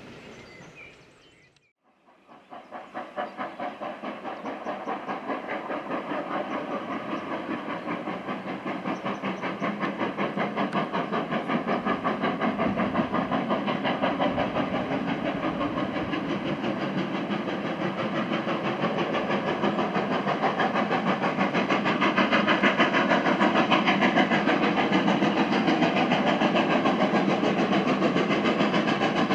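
Two GWR Manor class 4-6-0 steam locomotives double-heading a train, working hard. Their exhaust beats come fast and steady and grow louder as they approach, then hold near the end.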